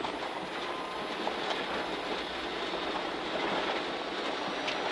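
Steady in-cabin road noise of a rally car at speed on a snowy winter stage: tyres on snow and ice with the engine running, an even rushing drone without distinct knocks.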